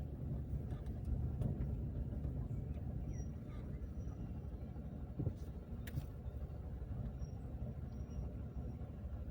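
Car driving along a road, a steady low rumble of engine and tyres, with a couple of light knocks about five and six seconds in.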